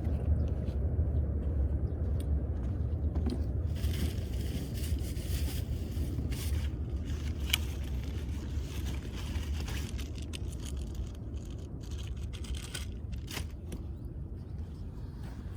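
Firewood being handled and pushed into a wood-burning grill: scattered clicks and brief scrapes of wood on wood and metal, over a steady low rumble.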